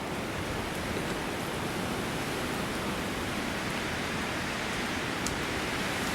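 Steady rain falling during a thunderstorm, an even hiss with no thunder.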